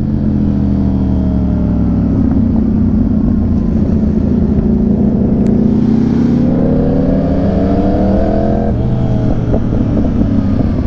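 Sport motorcycle engine heard while riding: its pitch sinks slowly as the bike rolls off, then rises under throttle from about six seconds in and drops abruptly near nine seconds at a gear change.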